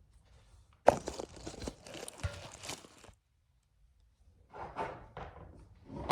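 Handling noise: a sharp knock about a second in, then about two seconds of crunching and crinkling, and a few more knocks and rustles near the end.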